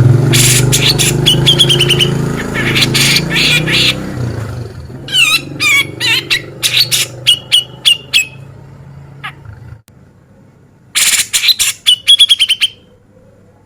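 Cucak jenggot (brown-cheeked bulbul) calling in loud bursts of sharp, rapid notes, each run ending in a short buzzy trill. There are three bursts, with a pause about ten seconds in. A low rumble runs underneath and fades by about ten seconds.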